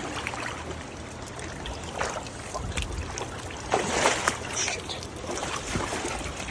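Floodwater trickling and sloshing, with a few louder splashes about two seconds in and again around four seconds in.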